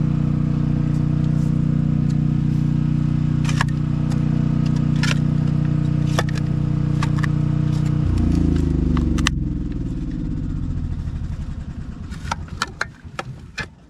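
An engine running steadily, then shut off about eight seconds in and spinning down to a stop over the next few seconds. Scattered clicks and light metallic knocks, more of them near the end.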